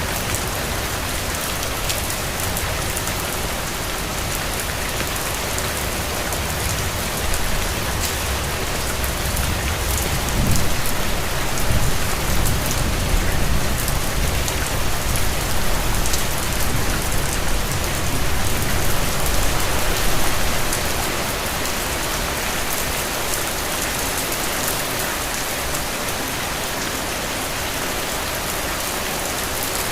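Steady rain falling: a dense, even hiss with a patter of fine drops. A low rumble builds through the middle and fades away.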